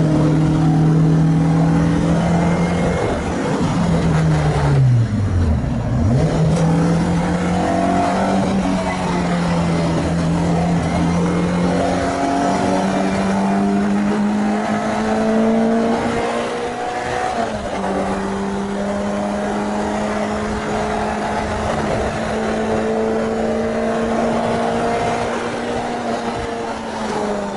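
Renault Clio 2 RS MiniCup's freshly rebuilt four-cylinder engine running hard on track. Its note falls sharply about five seconds in, then climbs slowly under load, steps at a gear change about seventeen seconds in, climbs again and drops away near the end.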